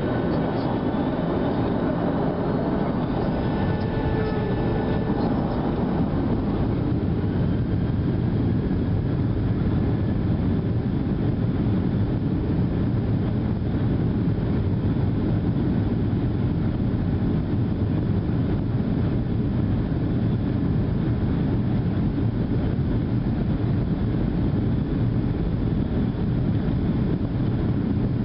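Boeing 737-700's CFM56-7 turbofan engines at high thrust during take-off, heard inside the cabin. In the first few seconds a thin whine rises and a few tones fade, then a loud, steady engine and air rush holds.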